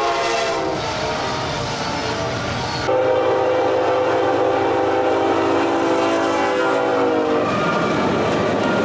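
Locomotive air horn blowing long held chords, the chord changing abruptly about three seconds in. Near the end the horn stops, leaving the noise of the passing train.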